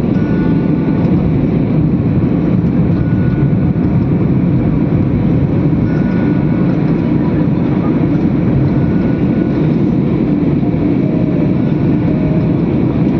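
An airplane's engines running at takeoff power, a loud, steady low noise that does not rise or fall.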